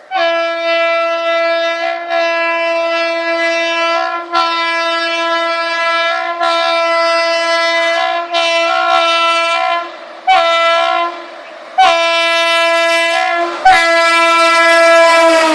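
Indian Railways train horn sounded in a series of about eight steady single-pitch blasts, most about two seconds long, with short breaks between them.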